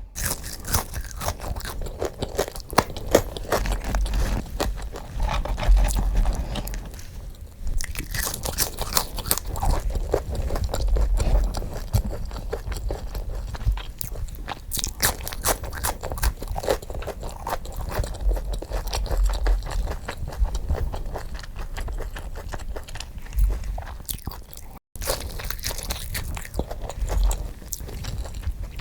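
Close-miked eating of crunchy food, sped up: a dense run of crunching bites and chewing with low thumps, broken by a brief dropout about 25 seconds in.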